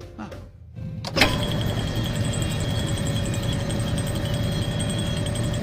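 Cartoon car engine starting at the push of a button: a sharp click about a second in, then the engine running steadily and loudly.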